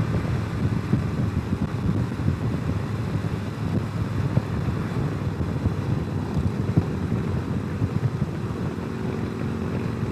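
Motorcycle riding at highway speed: wind buffeting the microphone over the steady noise of the running engine and the road.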